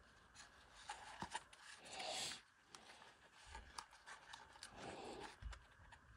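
Faint handling sounds of a plastic string-trimmer spool and nylon trimmer line being worked by hand: scattered light clicks, a brief rustle about two seconds in, and a couple of soft thumps.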